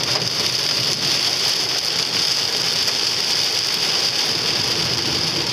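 Hail and heavy rain pelting a car's roof and body, heard from inside the cabin: a dense, unbroken drumming of countless small impacts, like the car being hammered.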